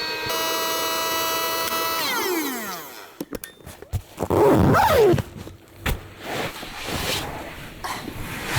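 An electric motor appliance running with a steady whine, switched off about two seconds in and winding down in pitch until it stops. Clicks and knocks follow, with a loud rushing noise about four to five seconds in.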